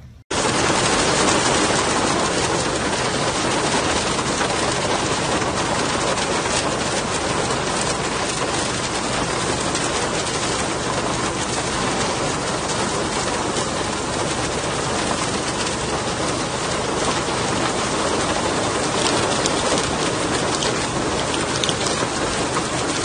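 Heavy rain pouring down in a dense, steady hiss of drops. It starts abruptly just after the beginning and stops suddenly near the end.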